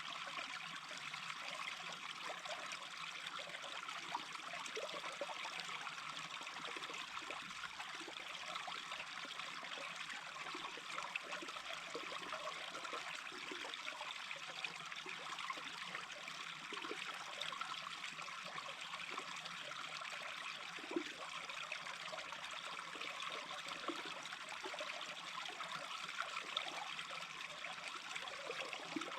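A small brook flowing steadily, with a continuous trickling murmur and small scattered gurgles.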